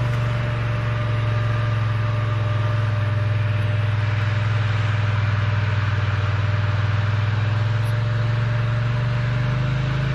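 Vehicle engine running steadily at an even speed, a constant low hum with a thin steady whine above it.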